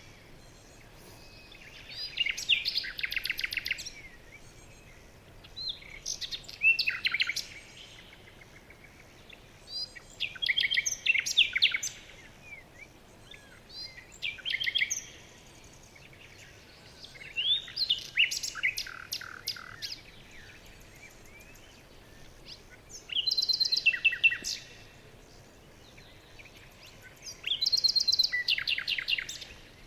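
Songbird singing: short, quick-noted phrases between about 1.5 and 6 kHz, repeated roughly every four seconds, over a faint steady hiss.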